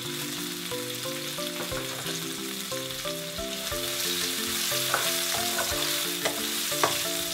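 Crushed garlic and red chillies sizzling in hot oil in a non-stick wok, the sizzle growing stronger about halfway through as they are stirred, with a few clicks of the spatula against the pan near the end. Light marimba background music plays underneath.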